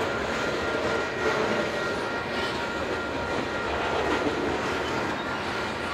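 Covered hopper cars of a loaded grain train rolling past: a steady rumble and rattle of freight-car wheels on the rails, with a few clacks and a thin steady high tone above it.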